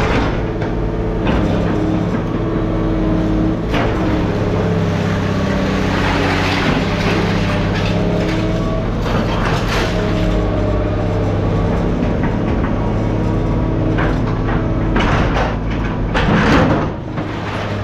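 Engine of heavy scrap-yard machinery running steadily, with several knocks and clatters along the way, the loudest near the end.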